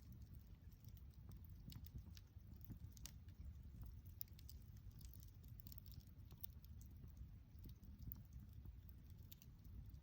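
Wood fire crackling faintly: scattered, irregular snaps and pops over a low steady rumble.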